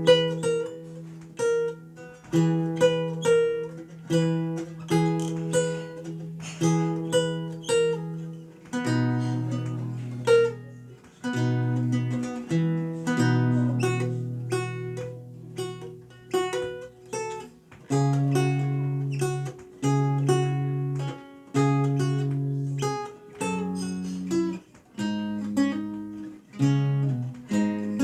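Renaissance lute played solo: plucked notes and chords in a steady rhythm over a bass line that moves about once a second, each note fading quickly after it is plucked.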